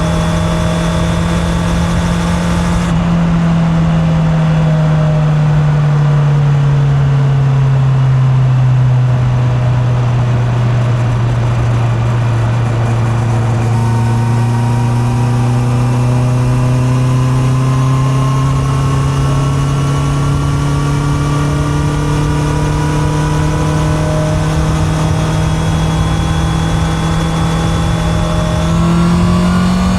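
Honda CB650R's inline-four engine running under way with wind noise, heard from a mic in the rider's back pocket. The engine note falls over a few seconds as the rider eases off, holds low, then climbs slowly, with a quick step up near the end as the throttle opens.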